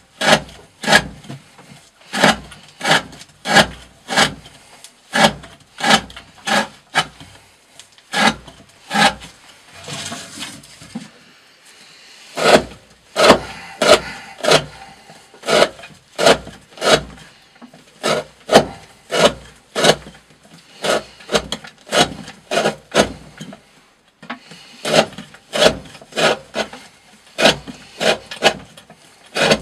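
A D2 steel knife blade slicing through 20 mm rope, cut after cut, about three strokes every two seconds, with a short pause about ten seconds in. The cuts are a rope-cutting test of the edge's wear.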